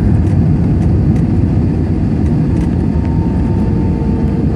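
Steady low roar of an aircraft's engines and rushing air, heard from inside the passenger cabin. A faint steady whine joins it about three seconds in.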